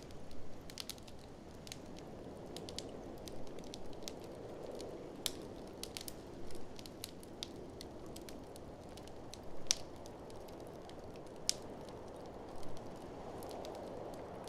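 Wood fire crackling, with irregular sharp pops and snaps, over a steady whoosh of blizzard wind that swells twice.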